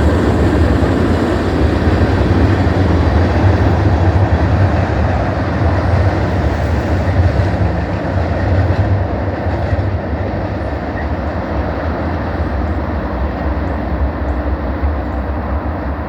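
Freight train of empty gravel cars rolling past, a steady heavy rumble of wheels on rail that eases slightly in the second half.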